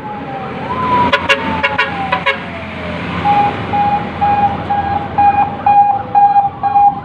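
Emergency vehicle sirens: a wail falling slowly in pitch, with a quick run of short sharp blips, then a pulsing siren tone at about two beats a second, joined near the end by quick rising yelps, over traffic noise.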